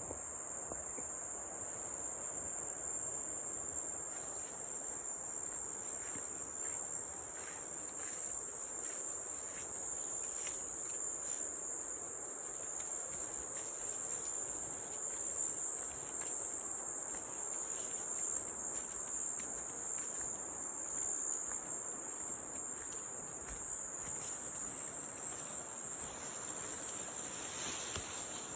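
Insect chorus: a steady, high-pitched drone that holds without a break, over a faint even hiss.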